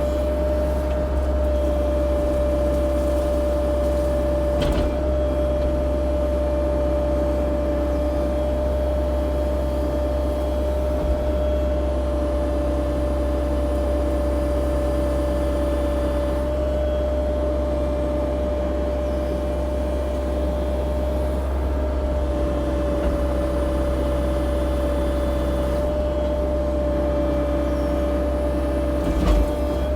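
CAT 304 E2 mini excavator running steadily at work, a constant deep engine drone with a steady high whine over it. A couple of light knocks, one about five seconds in and a louder one near the end.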